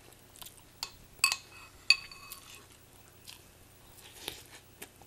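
A spoon clinking against a cereal bowl, with two sharper strikes about a second and two seconds in that ring briefly, between quieter ticks and soft chewing of a mouthful of cereal.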